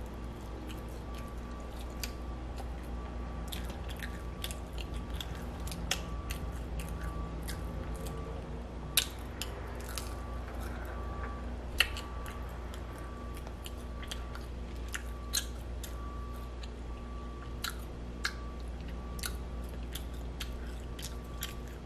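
A person chewing and biting food, with many small wet clicks and smacks of the mouth and a couple of sharper clicks about nine and twelve seconds in. A faint steady hum and a thin high tone run underneath.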